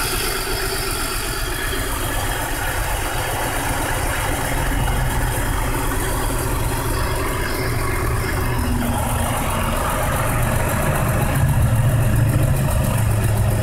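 1999 BMW 528i's 2.8-litre straight-six idling roughly, with a low steady running sound and an uneven putter. The shaking idle goes with stored misfire codes on several cylinders and idle-speed control valve codes.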